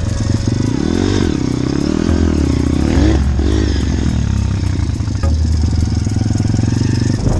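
Motorbike engine running on a ride, its pitch rising and falling several times with the throttle in the first half, then holding steadier.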